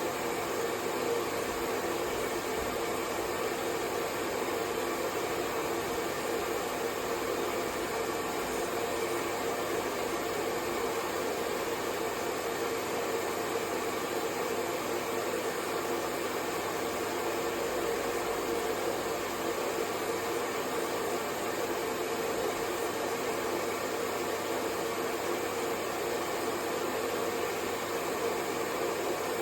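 Hair dryer running continuously: a steady, even rush of air with a constant hum in it, unchanging throughout.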